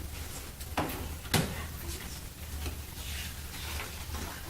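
Two sharp knocks about half a second apart, the second louder, over a steady low hum.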